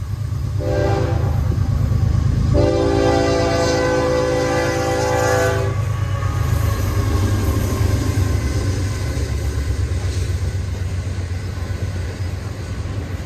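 Diesel freight locomotive sounding its multi-chime air horn, a short blast followed by a long one, over the steady low rumble of the locomotive and train passing close by.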